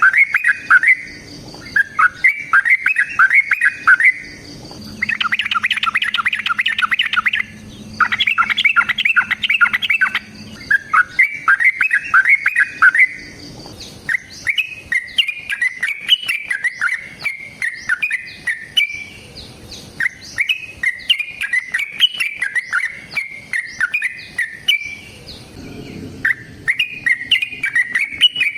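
Yellow-vented bulbul (trucukan) singing in long, rapid bubbling phrases of chattering notes, repeated over and over. The phrases come in separate bursts at first, then run together almost without a break from about halfway through.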